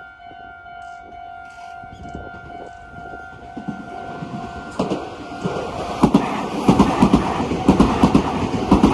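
Level crossing warning bell ringing as a steady two-note tone. From about five seconds in, a Meitetsu Seto Line electric train passes close by and drowns it out, its wheels clattering rhythmically over the rail joints and growing louder.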